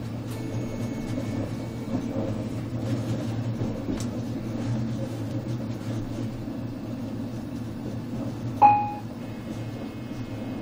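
Steady low rumble of a passenger train running, heard from inside the carriage. About three-quarters of the way through, a short bright chime rings once, the loudest sound.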